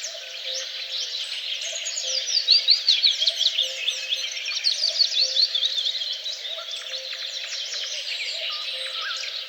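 Several songbirds singing and chirping at once in a dense chorus, with one bird's rapid run of quick falling notes loudest in the middle.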